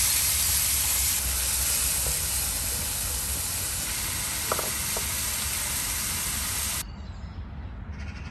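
Chopped tomato frying in hot oil and ghee in a steel kadai: a steady sizzle while it is stirred, easing slightly, with a couple of light taps about halfway. It cuts off abruptly near the end to something much quieter.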